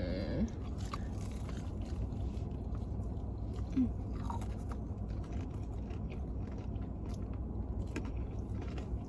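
Close-miked chewing and biting of fried food: scattered small crunches and wet mouth clicks, over a steady low hum.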